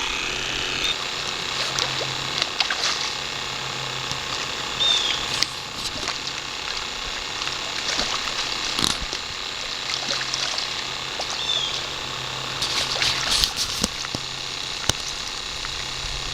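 Steady rush of river water, with scattered small clicks and knocks and two short high chirps.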